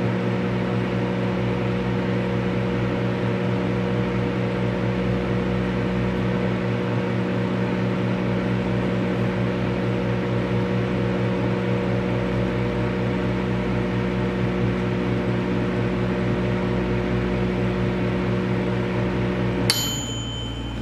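Microwave oven running with a steady hum. Near the end it stops with a single bell ding, and the hum drops to a quieter fan noise.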